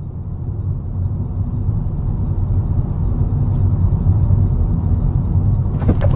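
Low vehicle rumble of engine and road noise that grows steadily louder. Just before the end come several sharp, loud bangs, the start of a crash impact.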